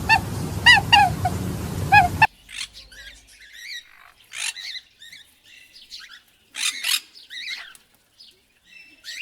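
Birds calling: a quick series of short peeping calls over a steady low hum, then, after a sudden cut about two seconds in, scattered high chirps.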